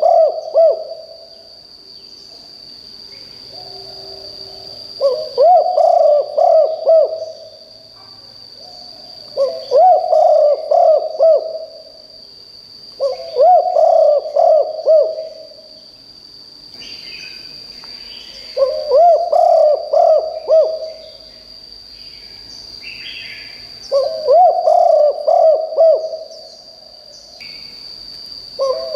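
Spotted dove cooing its territorial call: phrases of several quick, pulsed coos about two seconds long, repeated roughly every four to five seconds. A steady high whine and faint chirps of other birds run underneath.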